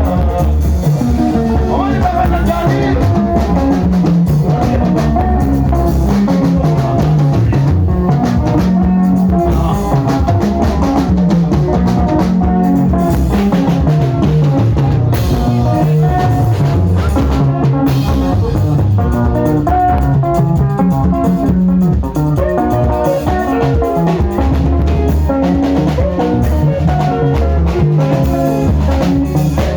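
Sungura band playing an instrumental passage: a drum kit keeping a steady beat under electric guitar lines and a busy, moving bass guitar.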